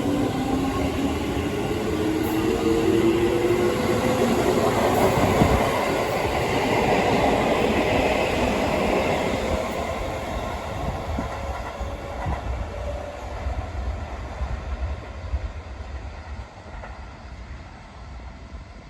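Chiba New Town Railway 9100-series electric train departing. The traction motors whine and rise in pitch for the first couple of seconds, then the running noise of the wheels and cars builds. It is loudest around six to eight seconds in and fades steadily as the train pulls away.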